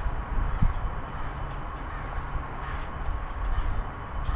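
Crows cawing several times over a steady low rumble.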